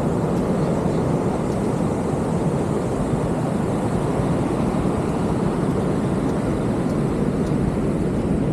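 Steady low roar of breaking ocean surf, an even rumble with no single wave standing out.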